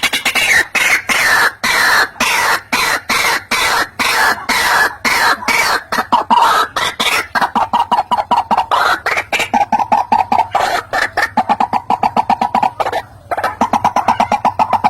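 White-breasted waterhen calling: a fast, unbroken run of short, harsh, repeated notes, with a brief pause about 13 seconds in.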